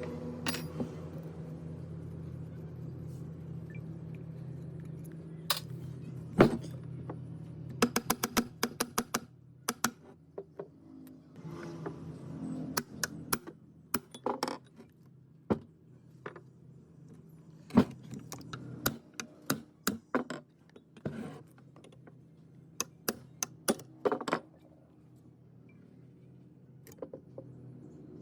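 Metal parts and hand tools clinking and tapping, with a quick run of light, evenly spaced strikes about eight seconds in. A steady low hum sits underneath for the first third.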